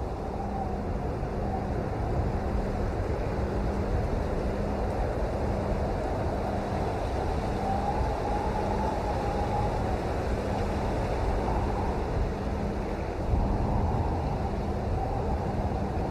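Steady rain noise, a dull, even rushing with most of its weight low down and little hiss on top.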